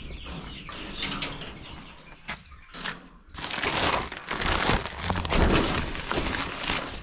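Chickens in a poultry house, with scattered knocks and then, from about three seconds in, loud rustling and scuffling with many short knocks.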